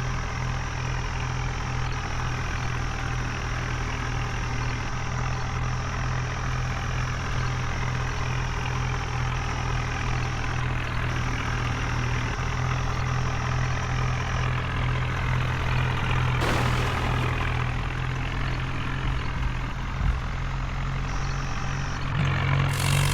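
Heavy vehicle engine idling steadily, with a short burst of hiss about sixteen seconds in and another near the end.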